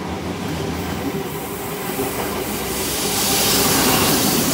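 XPT diesel passenger train passing at speed: steady rail and wheel noise with a hiss, swelling to its loudest about three seconds in and easing near the end.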